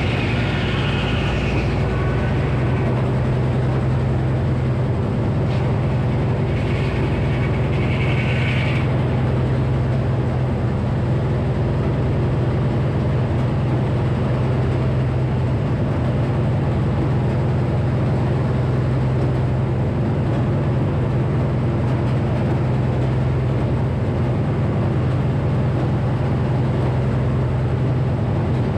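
Frick sawmill with a 48-inch circular saw, running steadily under its power unit with a constant low hum. A higher whine rises over it twice in the first nine seconds.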